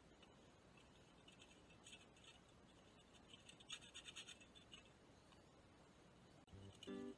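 Near silence, with a few faint scratching sounds. Acoustic guitar music starts near the end.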